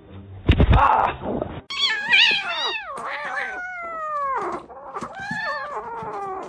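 Domestic cat yowling: a string of drawn-out, wavering meows, most sliding down in pitch, starting about two seconds in and going on in three or four calls. A short noisy burst comes first.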